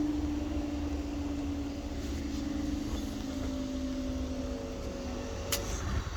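A vehicle's engine hum, its pitch sinking slowly as it fades out about five seconds in, over a constant low rumble. A single sharp click about five and a half seconds in.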